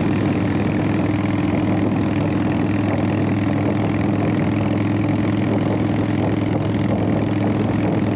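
Harley-Davidson V-twin motorcycle engine running steadily at an unchanging pitch.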